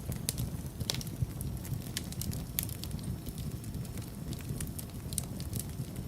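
Wood fire burning in a fireplace, a steady low rumble of flames with irregular sharp crackles and pops from the burning logs, several a second.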